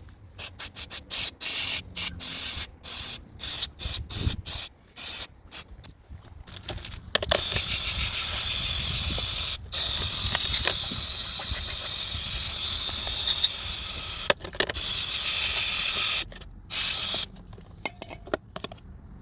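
Aerosol parts cleaner spraying: many short squirts, then one long continuous spray of about seven seconds, then a few more squirts. It is used to deep-clean the throttle body and idle air control valve.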